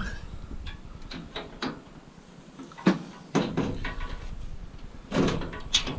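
Scattered clinks and knocks of metal being handled while working on a scrap radiator with a spanner, with one sharp knock about three seconds in.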